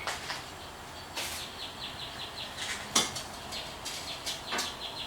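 Several sharp clicks and taps of a small piece of mirror glass being handled on the bench, the sharpest about three seconds in. Under them runs a bird's rapid, evenly repeated chirping trill.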